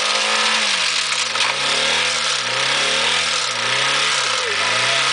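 Honda Civic D16A8 four-cylinder engine being revved up and down over and over, about once a second, over a loud hiss. The engine is being run to destruction and is throwing out its oil.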